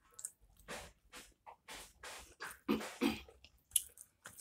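Close-miked chewing and mouth noises of people eating curry chicken and roti, in irregular short bursts.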